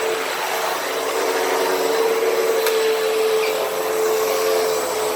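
Hoover Windtunnel T-Series upright vacuum cleaner running steadily over carpet with a constant motor hum. Two sharp ticks break through, one at the very start and one about two and a half seconds in.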